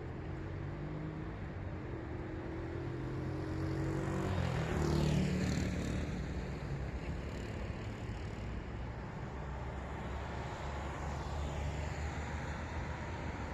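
City traffic: cars running past on a street, with one vehicle passing close about five seconds in and fading away.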